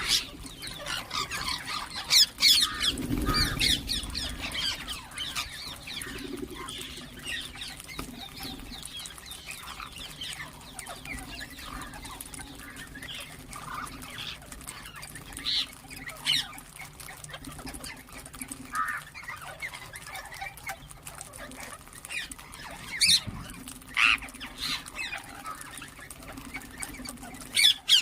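Birds calling and chirping: a stream of short chirps with several loud, shrill squawks, clustered near the start, about halfway, and in the last few seconds.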